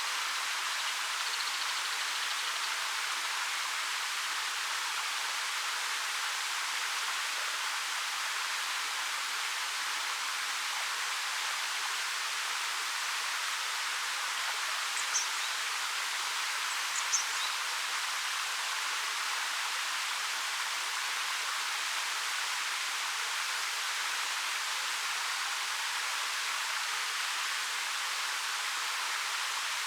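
A 13 m waterfall falling over rock, a steady rushing hiss of water. About halfway through there are two brief high chirps.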